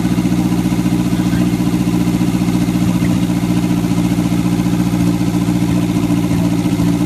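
Riley 2.5 litre four-cylinder engine running steadily on a bare rolling chassis with no bodywork, an even, unchanging beat.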